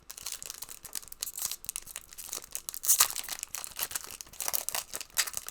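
Foil card-pack wrapper being torn open and crinkled, with cards shuffled and rustled by hand, in a run of irregular crackles loudest about three seconds in.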